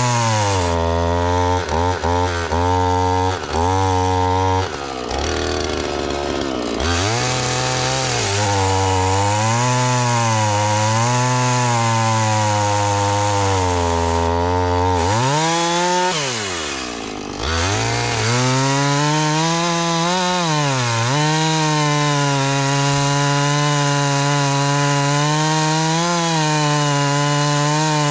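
Husqvarna two-stroke chainsaw running at high revs while cutting ash logs. Its pitch sags and recovers as the chain bites into the wood. About 16 seconds in the engine drops sharply, then revs back up.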